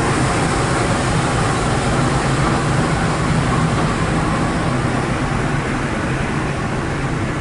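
Passenger train running along the line: a steady rumble and rushing noise of wheels on rails. It swells at the start and then holds steady.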